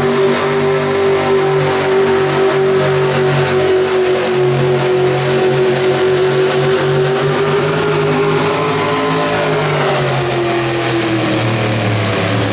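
Pulling truck's engine at full throttle under heavy load, dragging the sled, its note held steady at high revs and then sagging in pitch about ten seconds in.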